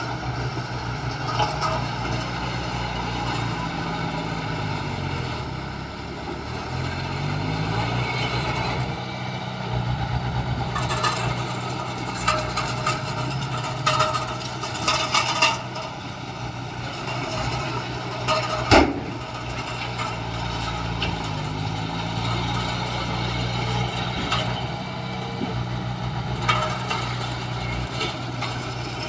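Heavy diesel earthmoving machinery running, its engine note dropping and climbing back up twice. Metal clanks come through the middle, with one sharp bang about two-thirds of the way through.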